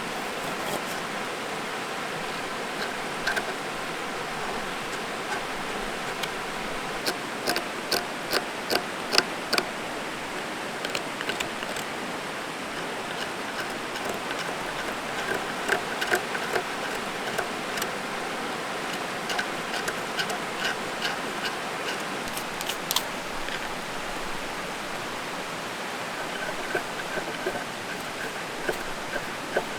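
Mountain stream rushing steadily over rocks. Sharp clicks sound on top of it, a quick run of about six between seven and nine and a half seconds in, then scattered ones.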